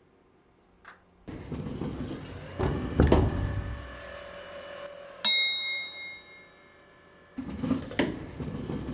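Rustling and knocking, then a single sharp metallic ding about five seconds in that rings and fades, followed by more rustling and knocks near the end.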